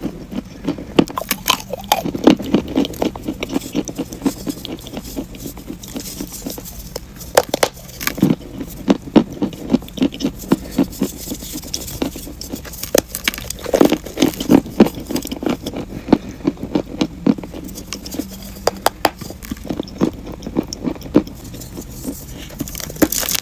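Eating chalk being bitten and chewed close to the microphone: a run of irregular sharp crunches and cracks in clusters, with short pauses between bites.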